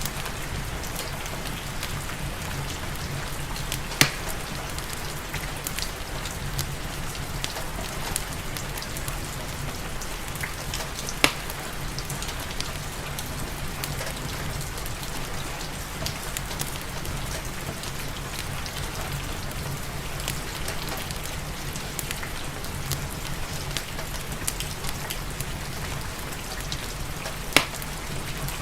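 Steady rain with a low, even rumble underneath, mixed with the crackle of a wood fire in a fireplace: many small ticks and three sharp, louder pops spread through.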